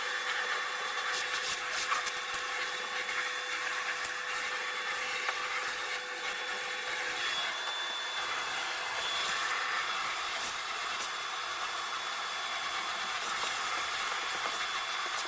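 Vacuum cleaner running steadily, with a few light knocks.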